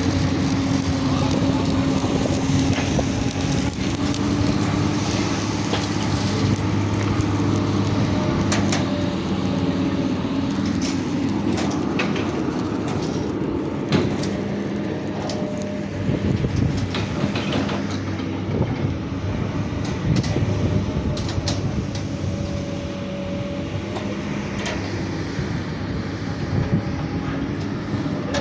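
Excavator's diesel engine running steadily, with scattered metallic clanks and knocks throughout.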